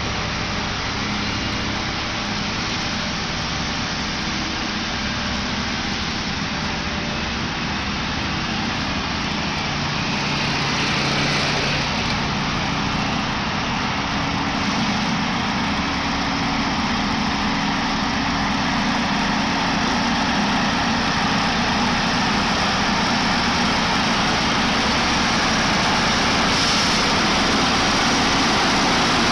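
An engine running steadily, slowly getting a little louder.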